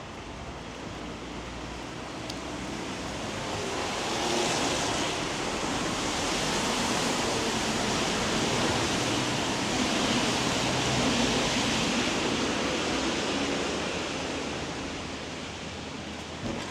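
Hiss of a vehicle's tyres on a wet road, swelling over several seconds as it passes and fading again.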